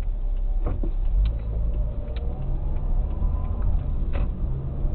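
Car driving, a steady low rumble of engine and road noise, with a few light clicks or knocks scattered through it.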